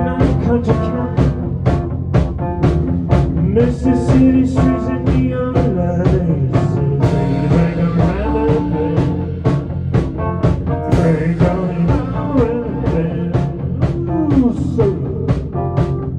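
Rock band playing an instrumental passage: electric guitar with bending, sliding notes over bass and a steady drum beat.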